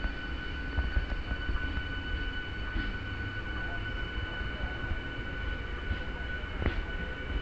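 Electric MEMU train pulling away from a station and coming closer: a steady low rumble with a steady high tone over it and a few clicks near the end.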